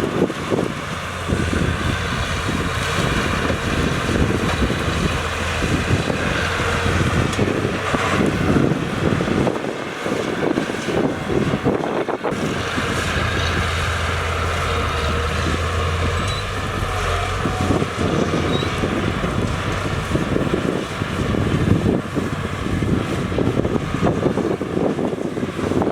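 Heavy diesel earthmoving machinery running steadily at a fill site, with wind on the microphone. The low engine drone swells twice, as if under load, once near the start and again about halfway through.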